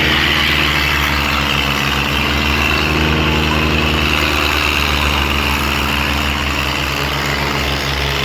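Diesel tractor engine running steadily with a low, fast pulsing beat.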